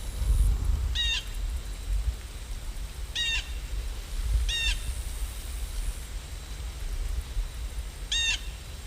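A bird giving a short, wavering call four times at uneven intervals, over a steady low rumble.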